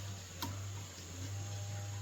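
A single light click about half a second in, over a steady low electrical hum.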